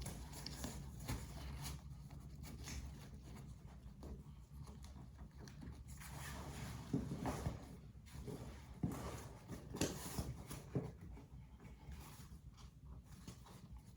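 Faint rustling of nylon fabric and webbing, with a few scattered light clicks and knocks, as a backpack's shoulder strap and its clips are handled and fitted.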